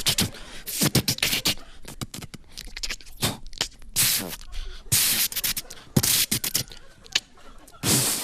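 Mouth-made sound effects into a microphone: a run of sharp clicks and several short hissing bursts, with a longer hiss near the end.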